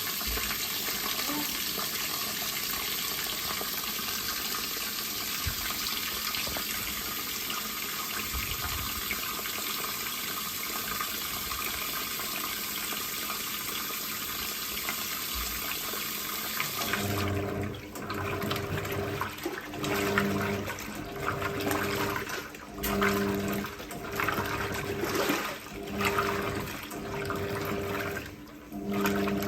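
Water pouring steadily into the tub of a Hoover 1400 top-loader washing machine as it fills. About two-thirds of the way in, the fill stops and the PowerPulse agitator starts: the motor hums in repeated strokes about every second and a half, with water sloshing each time.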